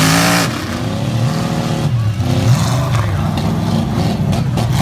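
Engines of several racing trucks running hard, their pitch rising and falling as they accelerate and back off around the track.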